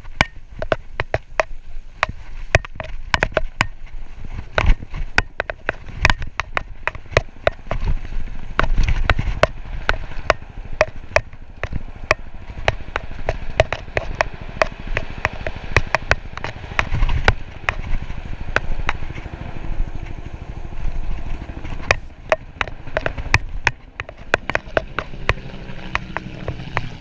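Mountain bike rattling down a rough singletrack trail: a dense, irregular clatter of clicks and knocks from the bike over rocks and roots, over a steady low rumble of tyres and wind.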